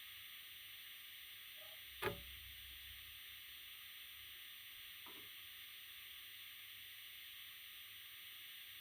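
Faint steady hiss, with one sharp knock about two seconds in and a fainter tap around five seconds.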